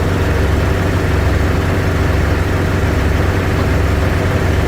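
Heavy engine idling steadily, a low even drone with no change in speed.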